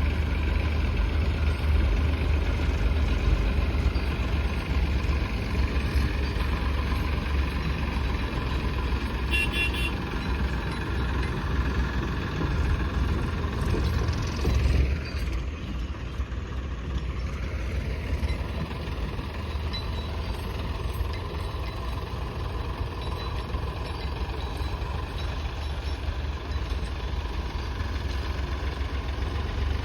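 Diesel engines of a backhoe loader and tractors running steadily with a deep low rumble. A brief high tone sounds about nine seconds in.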